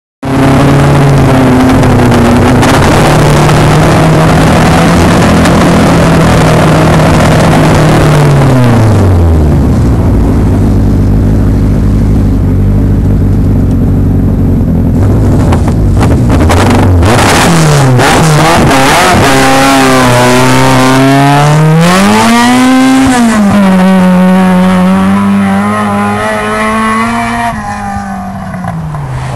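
VW Golf Mk2 stock car's 16-valve four-cylinder engine on Weber carburettors, very loud: held at high revs for several seconds, then dropping to a rough low idle. After a couple of short throttle blips it revs up and sweeps up and down through the gears, fading away near the end as the car pulls off down the track.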